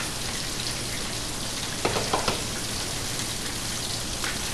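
Steady sizzle of a beef burger patty and french fries frying in pans. About two seconds in, a few short scrapes of the ice cream scoop digging into rock-hard frozen ice cream.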